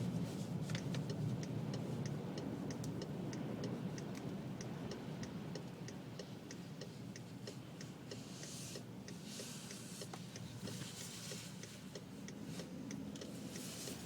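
Steady, even ticking, about three ticks a second, over a low steady hum, with brief patches of hiss near the middle.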